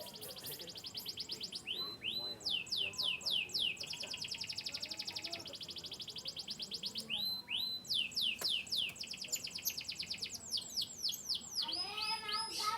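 Canary singing: very fast, high trills alternate with runs of separate downward-sweeping whistled notes, twice over. Near the end a lower-pitched warbling phrase comes in.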